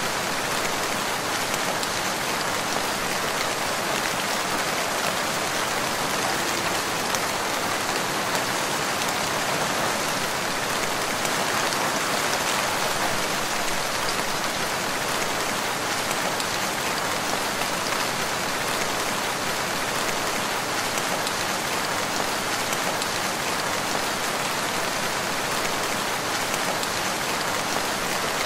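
Steady rain falling on a wood, an even hiss of many drops with no thunder or let-up.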